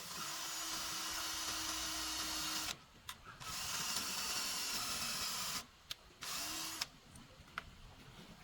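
A handheld power tool running in three bursts: about two and a half seconds, a brief stop, about two seconds more, then a short final burst near the end.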